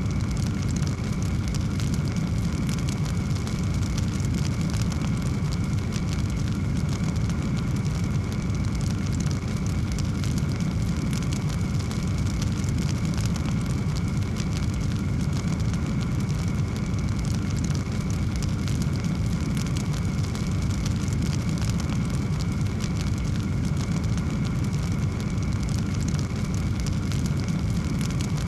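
Fireplace fire burning, with a steady low rumble of flames under a dense, continuous scatter of small crackles and pops.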